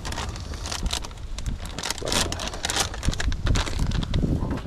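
Irregular crinkling, crackling and clicking of hands and utensils at work while a chili dog is put together in a bowl.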